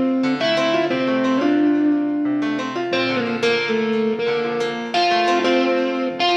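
Background instrumental music led by a piano or electric keyboard, playing sustained chords and melody notes that change about every half second.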